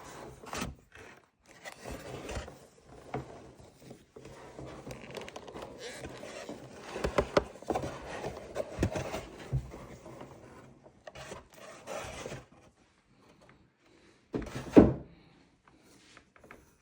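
Handling noises from a drip coffee maker and its parts being worked by hand: irregular scraping and rubbing with scattered clicks, then a single louder knock about fifteen seconds in.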